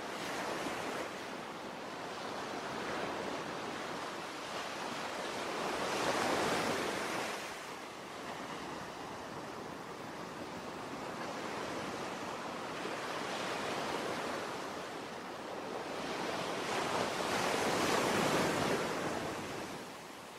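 Ocean waves washing in and drawing back, a steady rush that swells twice: once about a third of the way in and again, loudest, near the end.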